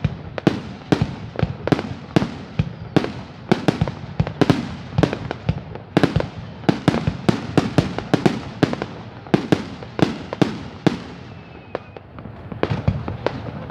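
Aerial fireworks display: firework shells bursting in quick succession, sharp bangs about two to three a second, each with a short echoing tail, thinning out briefly near the end.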